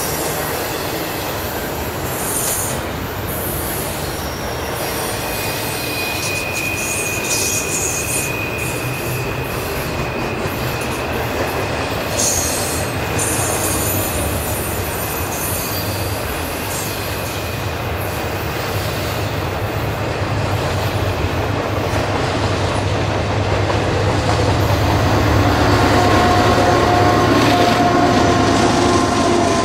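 Double-stack container train rolling past: steady wheel-and-rail noise, with a thin wheel squeal held for about ten seconds in the first half. Near the end the mid-train Canadian Pacific GE ES44AC diesel locomotive grows louder as it comes by, its engine and fans adding a steady hum and rumble.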